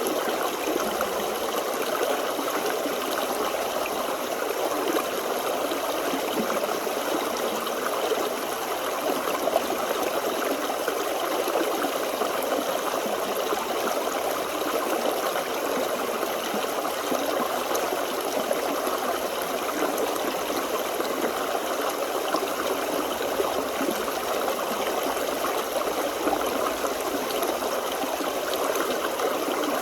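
Forest stream flowing and trickling in a steady, even rush of water.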